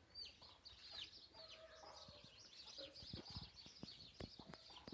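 Faint backyard birdsong, many quick high chirps, mixed with hens clucking and a few soft knocks in the second half.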